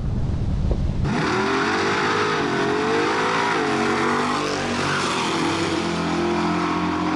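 Wind buffeting the microphone for about a second, then a loud drag-racing engine revving, its pitch rising and falling.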